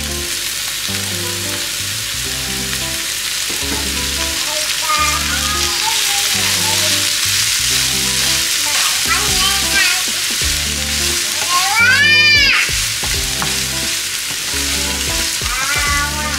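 Small pieces of chicken frying in oil with sliced onion and red chillies in a nonstick pan, sizzling steadily while a wooden spatula stirs them.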